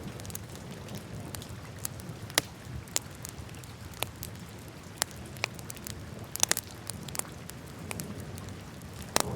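Wood fire crackling in a fireplace: irregular sharp pops and snaps over a steady low rumble of the flames, with a cluster of louder pops about two-thirds of the way in and another just before the end.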